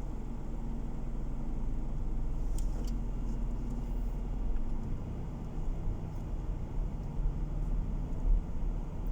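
Car driving along, heard from inside: a steady low drone of engine and road noise, with a few faint ticks near the third second. From about halfway the low rumble turns uneven.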